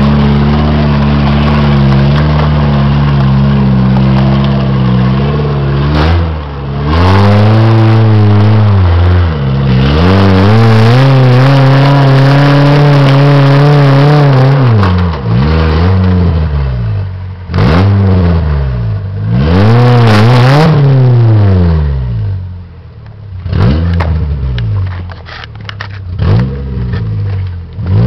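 Suzuki Samurai engine revving under load while crawling up a rocky slope. It holds high revs for the first few seconds, then the throttle is worked up and down over and over, with the engine dropping back briefly several times.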